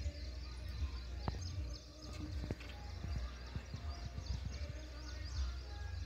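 Outdoor ambience: many small birds chirping over a low wind rumble on the microphone, with a couple of faint knocks.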